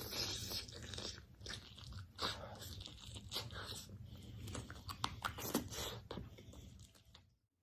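Close-miked crunchy biting and chewing of food, a rapid run of sharp crackling crunches that stops just before the end.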